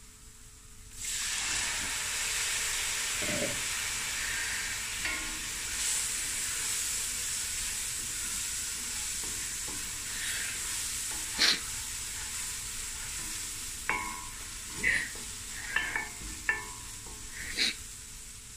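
Onion and masala spice paste sizzling in hot oil in a stainless steel pot. The hiss starts suddenly about a second in and slowly fades, while a wooden spatula stirs and scrapes through it, knocking sharply against the pot a few times in the second half.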